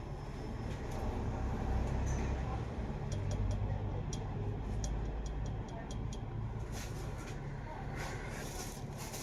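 Double-decker bus engine running, heard from inside the passenger cabin as a steady low hum. A run of light ticks sounds about three seconds in and lasts a few seconds.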